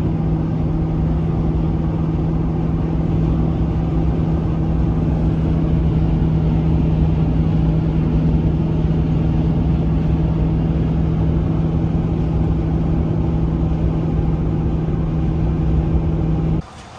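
Motor vehicle running at a steady speed: one constant droning engine tone over a low rumble, with no change in pitch.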